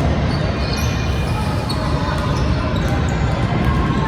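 Gym noise during a basketball game: a steady crowd din with a basketball bouncing and sneakers squeaking on the court.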